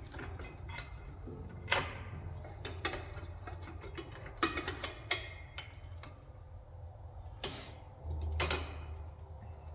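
Scattered light metallic clicks and knocks of tools and brake parts being handled, over a low steady hum.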